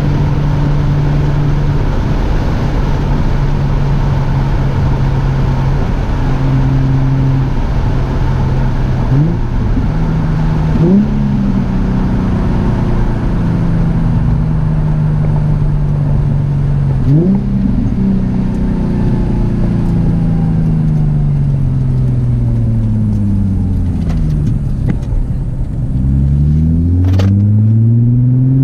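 Nissan 350Z's VQ35DE V6 running through an ISR single-exit catback exhaust while driving. It holds a steady note with a few quick rev blips, then the note falls as the car slows, and rises again near the end as it accelerates.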